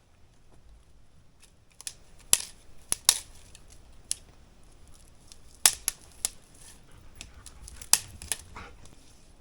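Irregular sharp clicks and snaps with light rustling, from camping gear being handled while a tarp is rigged. The loudest snaps come about two, three, five and a half and eight seconds in.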